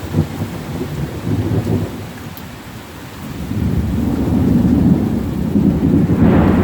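Rainstorm: steady rain under a low rumble that eases about two seconds in, then swells again from about four seconds in, with a rushing hiss rising near the end.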